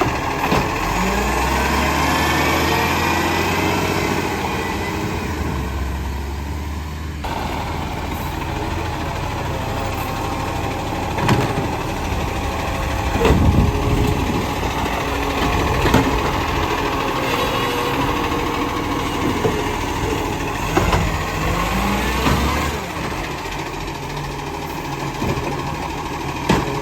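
Garbage truck engine running, with rising whines as it revs in the first few seconds, and several sharp knocks and clanks later on.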